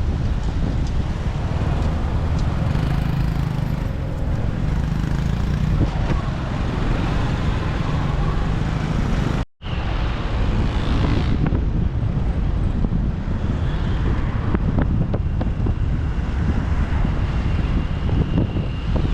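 Wind rushing over the microphone of a moving motorbike, with the engine and road traffic rumbling underneath. The sound cuts out for an instant about halfway through, then carries on.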